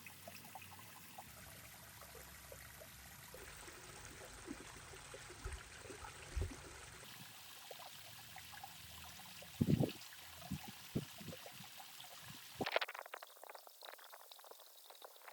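Water trickling and pouring through a miniature model dam, with a few light clicks and one louder knock about two-thirds of the way through.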